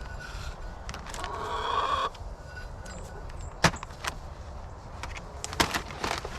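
Handling noise while string is tied onto a donut: a few sharp clicks and knocks over a low steady rumble, the loudest click a little past the middle.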